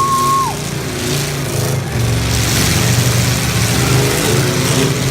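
Engines of full-size stock demolition derby cars running and revving, the pitch rising and falling as they maneuver. A steady horn tone cuts off about half a second in.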